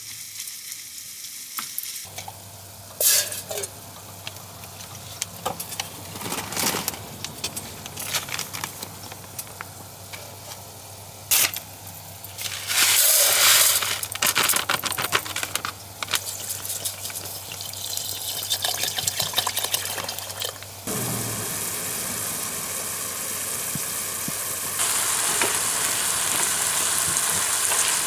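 Chicken thighs sizzling as they brown in olive oil in a skillet, with a few sharp knocks and a loud burst of sizzle about two-thirds of the way through. The sizzle grows steadily louder near the end.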